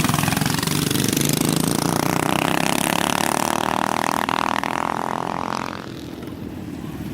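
Minibike engines running at full throttle in a drag race, loud for several seconds, then fading about six seconds in as the bikes pull away.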